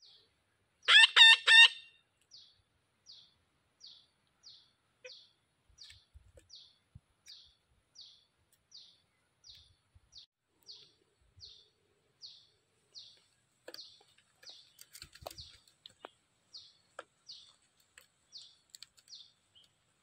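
Bird calls: a burst of four loud, short calls about a second in, then a steady series of faint short calls, about one every 0.7 seconds. A few faint knocks or rustles come near the three-quarter mark.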